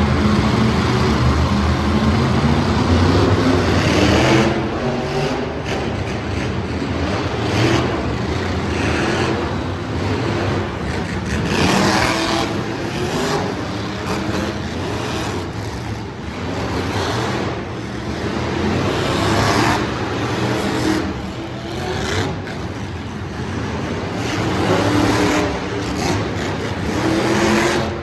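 Monster truck engine revving hard again and again, its pitch climbing and falling over and over.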